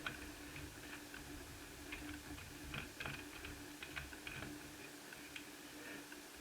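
Faint, irregular small clicks and light taps of a screwdriver and the plastic case of an Asus F5R laptop being handled while its bottom chassis is unscrewed, with a few soft knocks over a faint steady hum.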